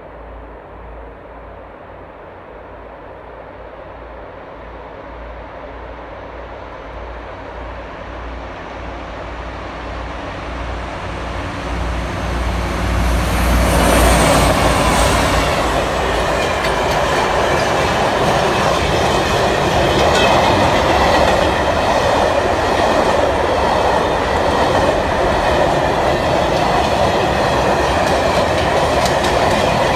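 A freight train approaching, its locomotive's low rumble growing steadily louder until it passes about fourteen seconds in. The wagons then roll by, wheels clacking rhythmically over the rail joints with a thin squeal.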